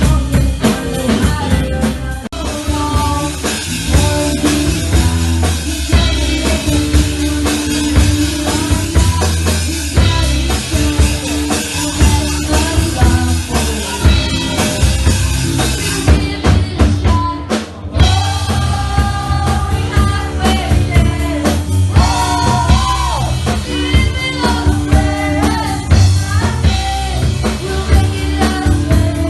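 Live band playing rock music with a drum kit keeping a steady beat under bass and melody; the cymbals drop out briefly about sixteen seconds in before the full band comes back.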